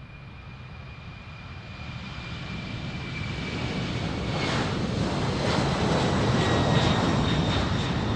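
An airplane passing close by: its engine noise swells over several seconds to a peak near the end, with a high whine that slides slowly down in pitch as it goes by.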